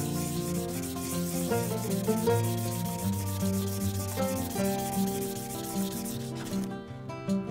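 A silver ring being rubbed back and forth on sandpaper to flatten and smooth its edge: a rapid, even scratching of quick strokes that stops near the end.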